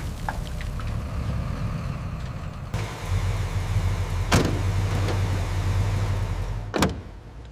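A vehicle's motor running with a steady low hum, with two sharp knocks, one midway and one near the end.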